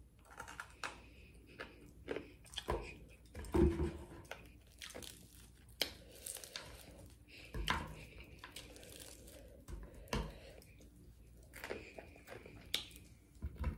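Chewing and crunching of crispy fried pork chop, with the breading crackling as a chop is torn apart by hand. Irregular crunches and mouth sounds, a few louder than the rest.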